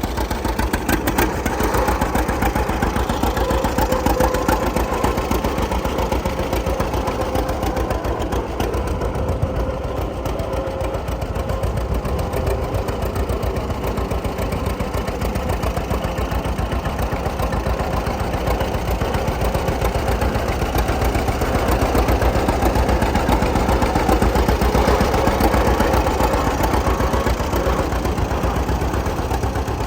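1937 John Deere AR tractor's two-cylinder engine running steadily, swelling a little louder a bit past the middle.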